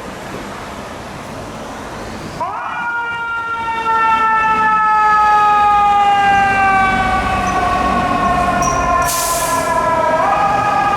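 Fire truck siren that comes in sharply about two and a half seconds in, then falls slowly in pitch over several seconds and swings back up near the end, over street traffic noise. A short hiss sounds about nine seconds in.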